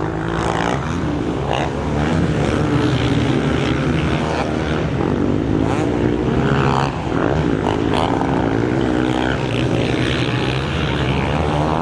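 Several motocross bikes racing around the track, their engines revving up and down as riders work the throttle through corners and jumps.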